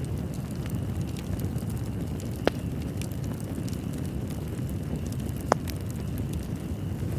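Wood fire burning in a fireplace: a steady low rumble with faint crackling throughout, and two sharp, louder pops, about two and a half seconds in and again about three seconds later.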